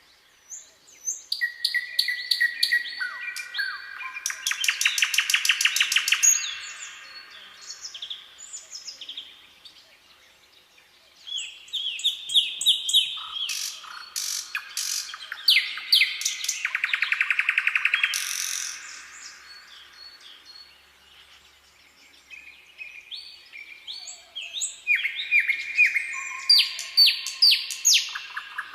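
Songbirds singing in three spells of chirps and fast trills, with short quiet gaps between them.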